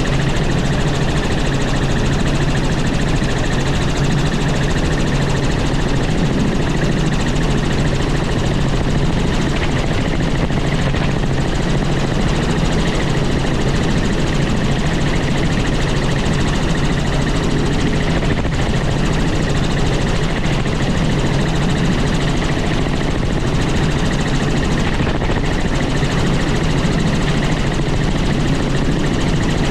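Helicopter in flight: a steady, loud drone of rotor and turbine engine that holds constant without change.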